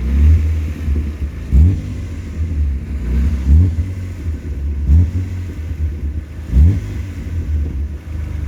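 BMW E36 328i's 2.8-litre M52B28 straight-six, on its stock exhaust, running with short throttle blips: about five quick rises in revs, roughly every one and a half seconds, each dropping back between.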